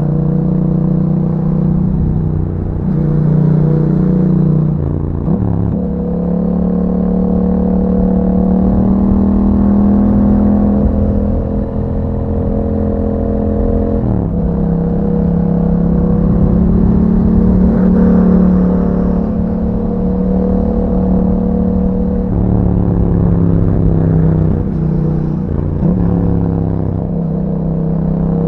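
Yamaha MT-07's 689 cc parallel-twin engine running through an aftermarket Akrapovic exhaust while riding, its note holding, rising and falling, with several breaks and drops in pitch where it shifts gear or rolls off the throttle.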